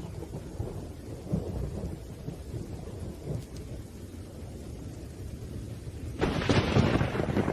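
Thunderstorm with rain: low rumbling thunder, then a sudden, louder thunderclap about six seconds in.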